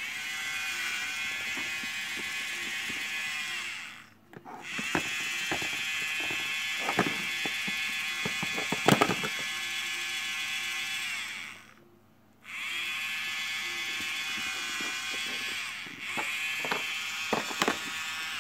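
Small battery motor of a Play-Doh dentist toy buzzing with a steady whine, switched on and off: four runs, each starting with a short rise in pitch, with brief stops about four, twelve and sixteen seconds in. Light clicks of plastic pieces being handled over it.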